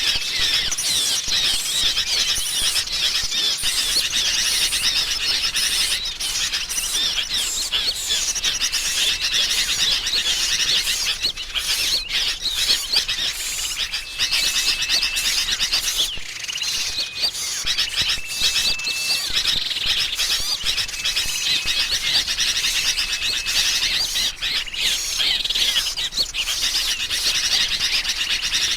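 Bird-lure recording of agitated sooty-headed bulbuls (kutilang) mixed with small-bird calls: a dense, continuous chatter of many birds, with short thin whistles recurring throughout.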